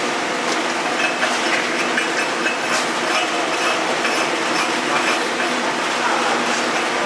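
Welding in progress: a steady machine hum with an irregular crackle running over it, likely an electric arc burning during the weld.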